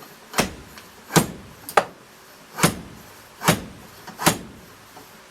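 Six sharp knocks of a makeshift tube seal driver rammed down onto an old oil seal, driving the new oil seal home into a Yamaha FJ1200 fork leg.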